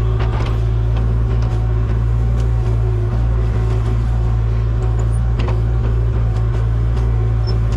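Engine of heavy equipment running steadily at a constant speed, with scattered light knocks and clicks.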